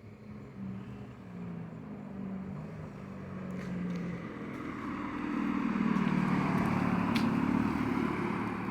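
A car driving past on a wet street, its engine and tyre hiss growing louder to a peak about six to eight seconds in, then starting to fade.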